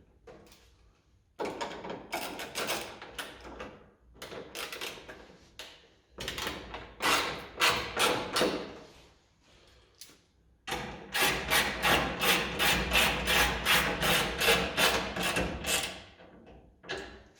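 Ratchet wrench being worked on bolts, rapid clicking strokes in three spells, the longest and steadiest near the end at about four strokes a second.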